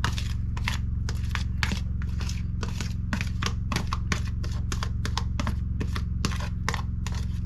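A utensil stirring a mixture in a bowl, clicking and scraping at about four strokes a second, over a steady low hum.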